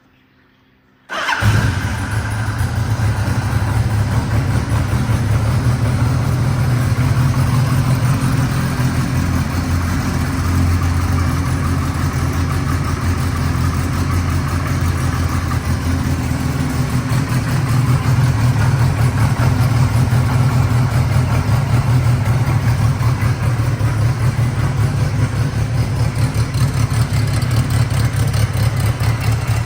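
1983 Kawasaki Z1000-R2's air-cooled inline-four engine, breathing through a Harris exhaust system, starts about a second in and settles into a steady idle.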